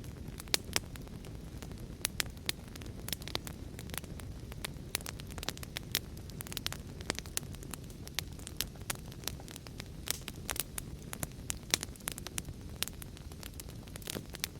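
Wood fire crackling, with frequent sharp irregular pops over a steady low rush of rain.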